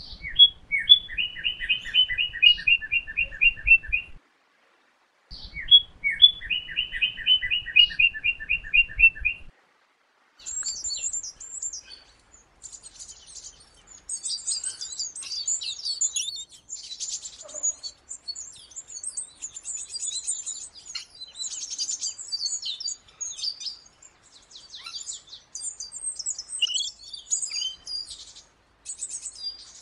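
Bird song: two phrases of rapid repeated notes, each about four seconds long, with a short pause between them. From about ten seconds in, the song gives way to dense, very high-pitched twittering, many chirps overlapping in near-continuous runs.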